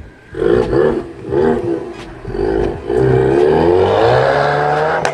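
Ford Mustang engine given three short bursts of throttle, then pulling hard as the car accelerates away, its pitch rising steadily for about two seconds before the sound cuts off abruptly.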